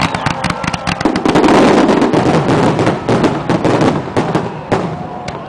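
Fireworks display: a rapid barrage of aerial shell bursts and crackling reports, densest and loudest from about one to two seconds in, thinning out near the end.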